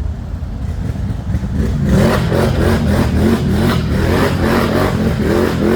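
ATV engine running, then from about two seconds in revving up and down repeatedly, with the pitch rising and falling about twice a second.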